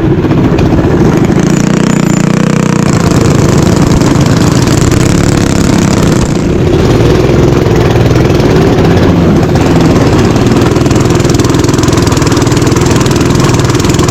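Mini bike engine running continuously, its pitch wavering slightly up and down.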